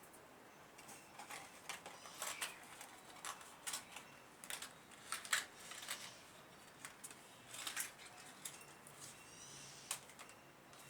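Small metal engine parts being handled during assembly: irregular light clicks and short scrapes, several a second at times, as the piston rings are fitted.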